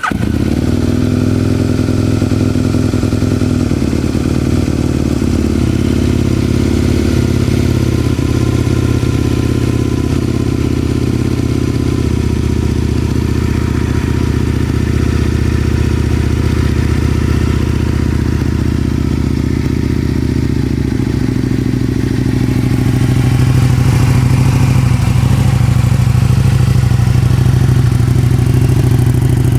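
Aprilia Tuono 1000R's V-twin engine running at a steady idle. It comes in abruptly at the start and gets a little louder and deeper about three-quarters of the way through.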